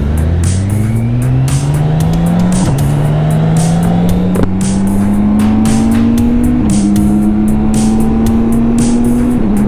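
BMW K1600B's inline-six engine accelerating through the gears, its note climbing and then dropping at upshifts about three seconds in, near seven seconds and near the end, before settling at a steady pitch.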